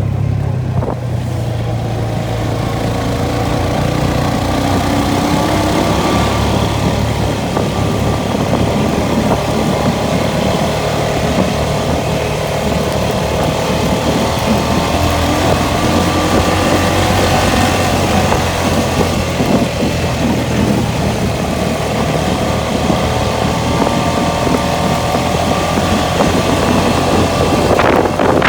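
ATV engine running steadily while riding, its pitch drifting a little with the throttle over rough rumble from the ride. Near the end a rush of wind noise hits the microphone.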